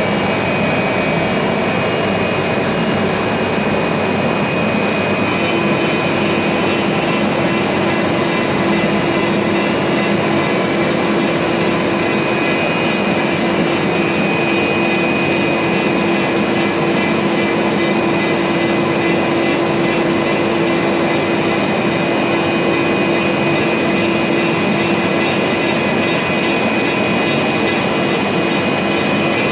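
CNC router spindle running steadily with a high whine while cutting fluted polypropylene (corrugated plastic) sheet. A lower steady tone joins about five seconds in.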